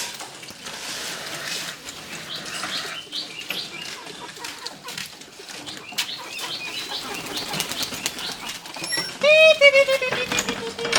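Birds chirping and flapping their wings amid scattered small clicks, with one loud, long call about nine seconds in that slides slightly down in pitch.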